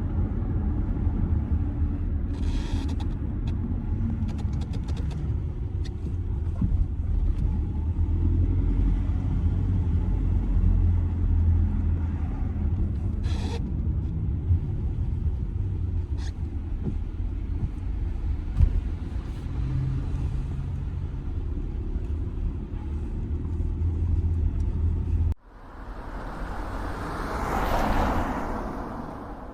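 Steady low road and engine rumble inside the cabin of an Audi A6 C6 with its 2.0 TDI four-cylinder diesel, driving at an even pace, with a few faint clicks and rattles. About 25 seconds in, it cuts off abruptly and a short whoosh swells up and fades.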